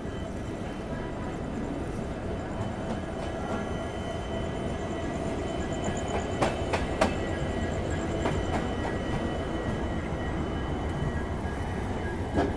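A passenger train running, heard from inside the coach: a steady rumble of wheels on the track, with two sharp clacks about six and seven seconds in as the wheels cross track joints.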